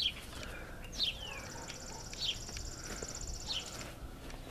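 Birds singing: a few short, falling chirps about a second apart over a high, rapid trill that stops shortly before the end.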